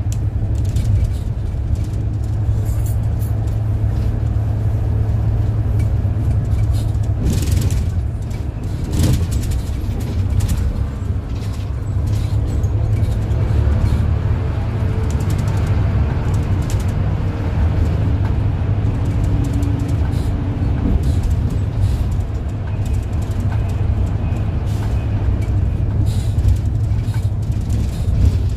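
City bus running along the road: the engine's steady low drone with rattles and knocks from the bus body, the sharpest about nine seconds in.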